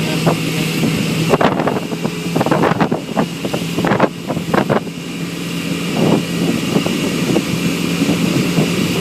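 Boat's motor running steadily, with wind on the microphone and many short, irregular noises over it.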